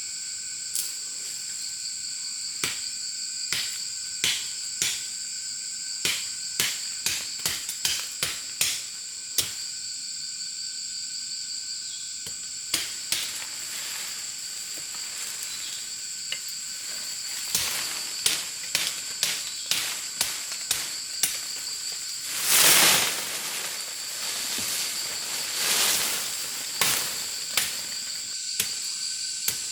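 Steady chorus of crickets, held in a few high, even tones. Over it come many sharp, irregular clicks and knocks, and two short rushing noises about two-thirds of the way through, the first the loudest thing heard.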